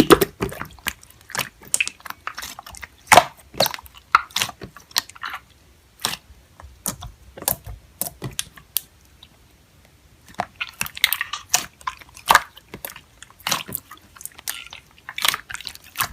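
Slime being squished and pressed by hand, giving irregular sticky pops and crackling clicks.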